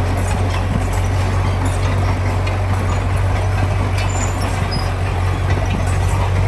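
Heavy diesel engine of earthmoving machinery running steadily under load, a deep constant hum with a noisy mechanical rattle and occasional light clanks.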